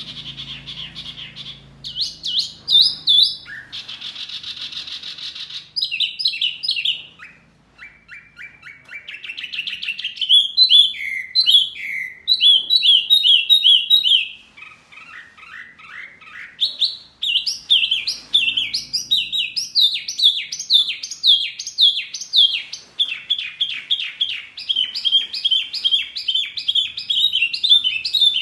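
Songbird song from a masteran training recording: a continuous run of varied, fast phrases of chirps, whistles and trills. One harsher buzzy phrase comes a few seconds in, and there is a short lull around eight seconds. Rapid repeated notes fill the second half.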